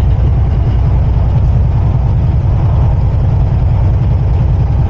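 Steady low drone inside a semi-truck cab at road speed: the diesel engine and tyre and road noise running evenly.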